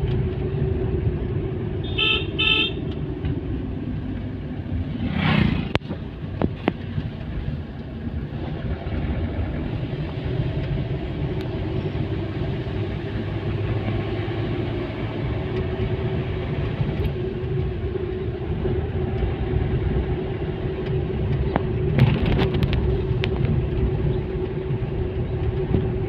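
Steady engine and road noise from a vehicle on the move. A horn beeps a few times in quick succession about two seconds in, and a louder rush of passing traffic comes and goes around five seconds.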